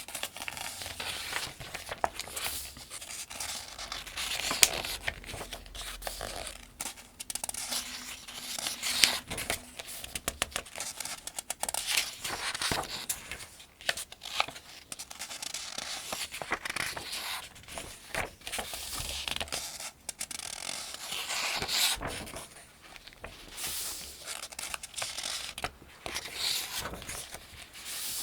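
Pages of a paperback almanac being turned one after another at a steady pace: papery swishes and crinkles with a sharp flick as each page falls over.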